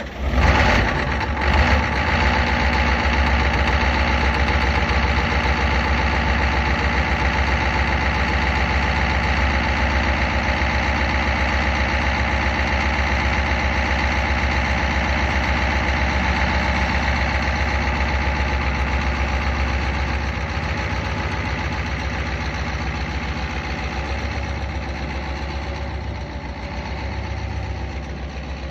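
Diesel engine idling steadily just after a cold start, a little louder in the first couple of seconds and somewhat quieter from about twenty seconds in.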